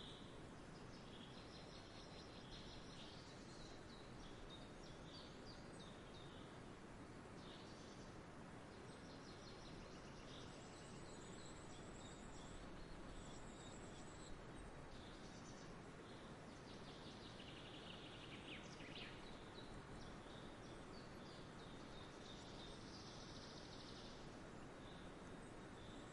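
Faint outdoor ambience of small birds chirping and trilling here and there over a steady background hiss.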